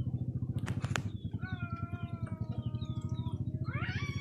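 A drawn-out animal call, even in pitch and about two seconds long, with a shorter call near the end. Under it runs a steady low throbbing, and two sharp clicks come just before the first call.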